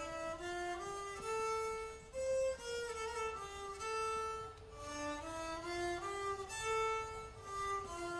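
A solo fiddle playing a slow melody of held notes that step up and down in pitch.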